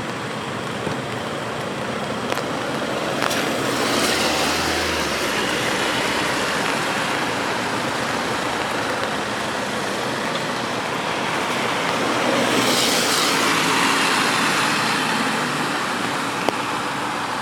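Steady rain with cars passing on the wet road: two tyre swishes rise and fade, one about four seconds in and a longer one about twelve seconds in, over the hiss of the rain.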